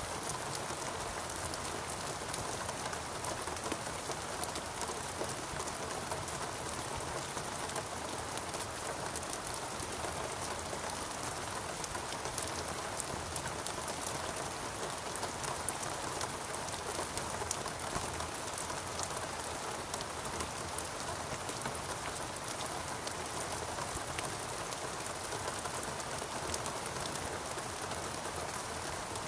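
Steady heavy rain falling in a rainforest, a dense even patter of many drops striking foliage and surfaces.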